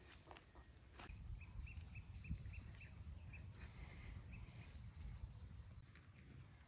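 Faint outdoor quiet with a low rumble, and a small bird giving a quick run of about eight short high chirps, starting about a second and a half in and lasting about three seconds.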